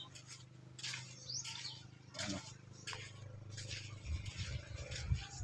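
Small birds chirping in short high calls, one rising chirp about a second in. Low rumbling on the phone's microphone starts near the end.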